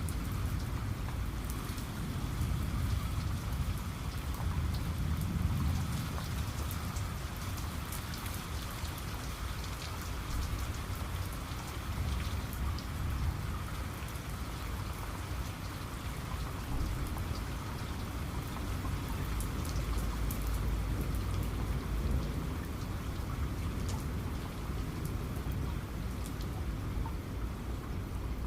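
Steady rain falling, with many fine drop ticks over a low rumble that swells about five seconds in and again around twenty seconds in.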